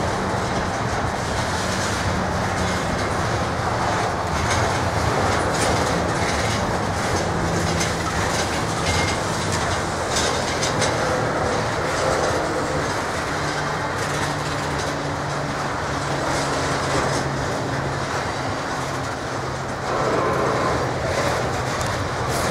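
Double-stack intermodal well cars with shipping containers rolling past on steel wheels. There is continuous rail noise with scattered clicks and a faint steady tone, and it grows louder for a moment near the end.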